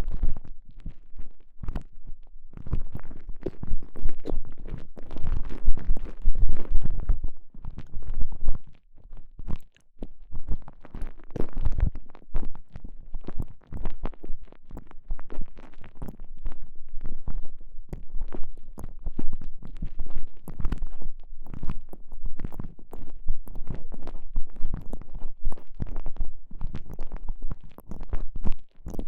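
Close-up sound from a microphone pushed inside a TENGA Egg stretchy sleeve as the sleeve is squeezed and rubbed against it: dense, irregular muffled squishing and crackling over soft low thumps.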